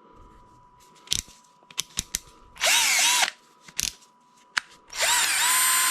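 GoGonova 12V cordless drill run with no load in short trigger pulls. A brief spin up and back down comes about two and a half seconds in, and a longer run rising to a steady speed near the end, with sharp clicks scattered before and between.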